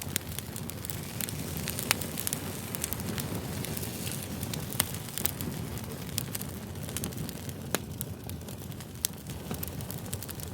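Crackling campfire: a steady low rumble of burning wood with frequent, irregular sharp pops and snaps.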